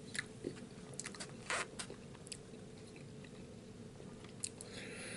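A man chewing a mouthful of food close to the microphone, with a scatter of short, soft clicks and smacks at irregular moments.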